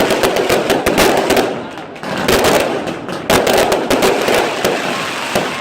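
Fireworks going off: a rapid, continuous run of loud bangs and crackles, easing briefly about two seconds in before picking up again.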